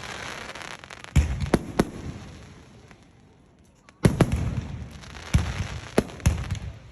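Aerial fireworks bursting: three quick bangs about a second in, a fading crackle and hiss, a brief lull, then a loud bang about four seconds in followed by a few more sharp reports.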